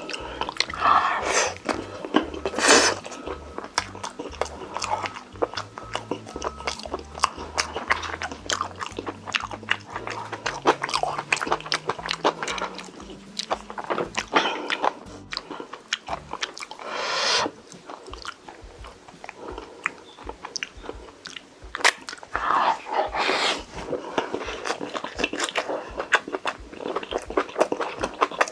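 Close-miked eating: biting and chewing with crunching and quick wet mouth clicks throughout, and a few louder bites spread through.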